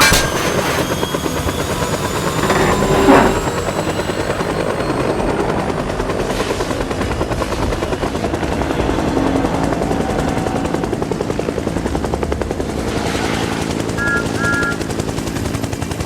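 Helicopter rotor chopping steadily, with a louder swell about three seconds in and two short high beeps near the end.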